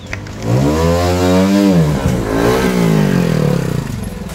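Single-cylinder trials motorcycle engine revving hard: the pitch climbs about half a second in, drops back near two seconds, then rises again and eases off.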